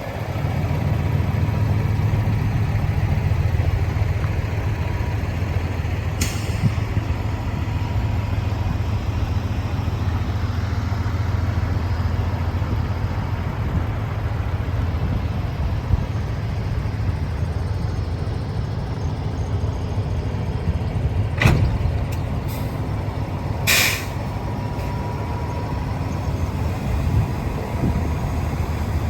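Kenworth T680 heavy truck's Paccar diesel engine running steadily at idle, with short hisses of compressed air from the truck's air system: once about six seconds in, then twice more a couple of seconds apart later on.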